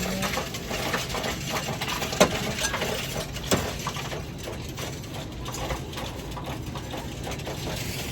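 Loose coins clinking as they are fed into a coin-counting machine, with two sharp clacks about two and three and a half seconds in, over a steady machine hum.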